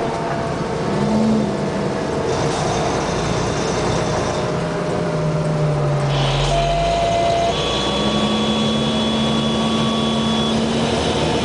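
Fire engine running on the road, with steady engine and road noise.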